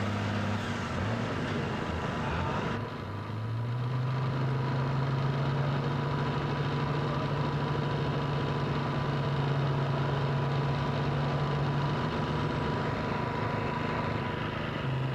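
Tractor engine running steadily. About three seconds in it dips briefly, then settles at a slightly higher, steady pitch.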